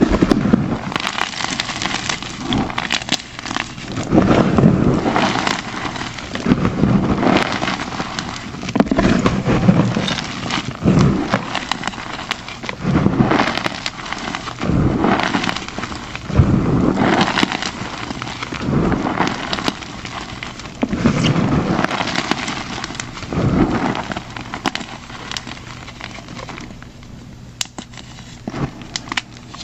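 Plain gym chalk blocks crushed and squeezed in the hand: a series of crumbly crunches, one squeeze about every two seconds, fading off near the end.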